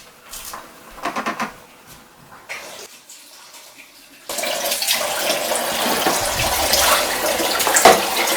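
A few light clicks and a short rattle, then about four seconds in water starts running steadily, like a tap.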